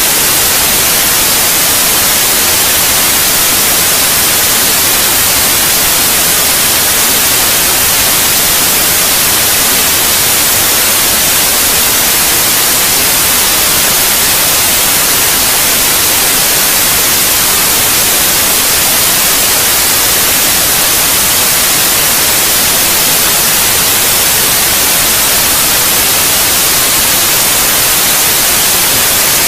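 Steady white noise: a loud, even hiss that does not change.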